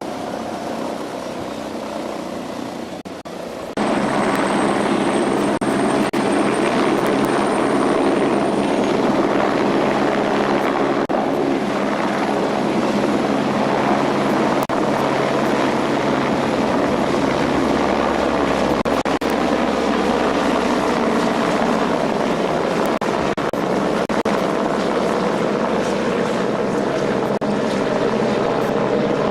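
Helicopter running, its rotor and engine making a loud, steady noise; the sound jumps abruptly louder about four seconds in.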